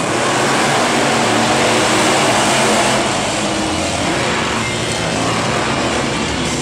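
Monster truck engines running loud, a dense engine and exhaust noise that eases slightly about three seconds in.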